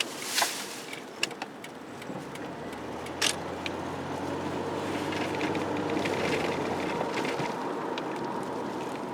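Road noise of a moving car heard from inside the cabin: a steady tyre and engine hum that grows louder for a few seconds in the middle and then eases, with a couple of sharp clicks.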